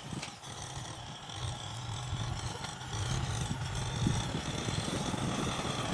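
A heavy vehicle engine running with a low rumble, growing gradually louder.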